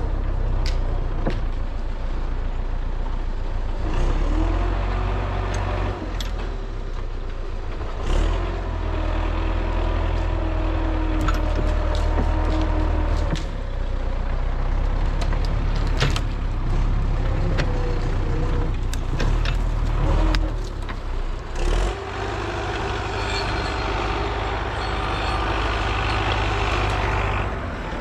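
MTZ-82 tractor's diesel engine running under changing load, its pitch shifting several times with a short dip a little past the middle, and occasional sharp knocks and clanks over it.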